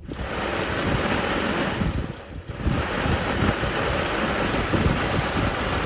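Dump truck heater blower fan running, with a loud, steady rush of air over the microphone that starts abruptly and dips briefly about two seconds in. The owner says the blower wheel is not drawing enough air.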